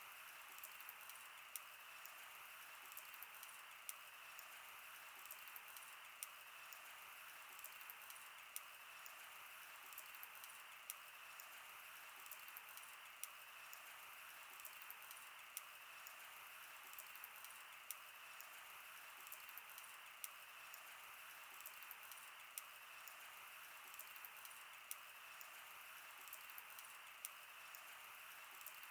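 Wood fire burning: a steady hiss with frequent sharp crackles and a louder pop every second or two.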